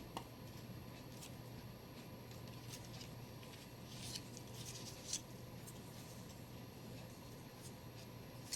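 Faint rustling and scattered small clicks of paper and rope being handled during gluing, with a sharp click just after the start and a cluster of clicks about four to five seconds in.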